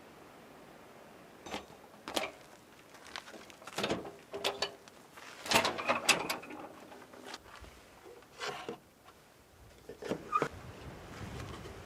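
Irregular clicks, knocks and short rattles of things being handled, loudest about halfway through, over a faint steady hiss.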